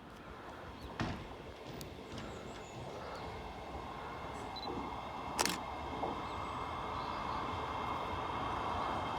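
A train approaching, its running noise building steadily, with a steady high whine. Two sharp clicks, about a second in and again after five seconds.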